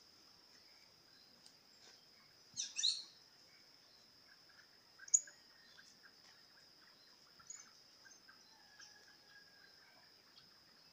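Birds calling over a steady high-pitched drone. A loud pair of quick chirping notes sounds about two and a half seconds in, and a single sharp chirp about five seconds in, with fainter short calls in between.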